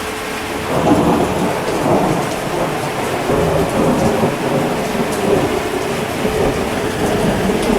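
Steady heavy rain with thunder that swells about a second in and rolls on, rising and falling.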